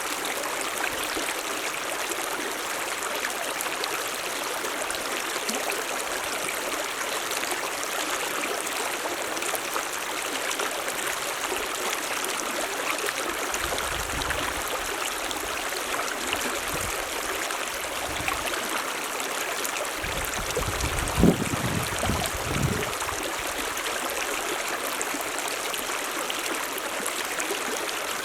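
Mountain stream running steadily over rocks. Past the middle come a few low rumbles, and about three quarters of the way through there is a brief louder thump.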